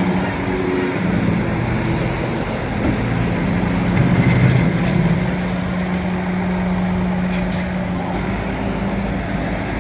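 Heavy diesel engine of a bulldozer running steadily under work, rising briefly about four seconds in, with a couple of short metallic clicks about two thirds of the way through.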